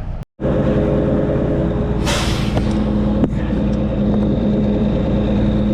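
1974 Kenworth self-loading log truck's diesel engine running steadily, with a short burst of air hissing from the truck's air system about two seconds in.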